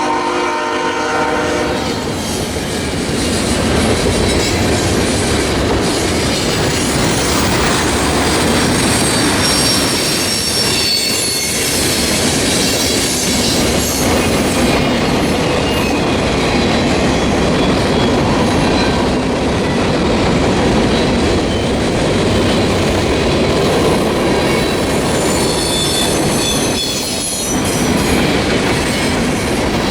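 A freight train passing close by. A diesel locomotive's air horn sounds and ends about a second in, then the cars rumble steadily over the track, with high-pitched wheel squeal about a third of the way in and again near the end.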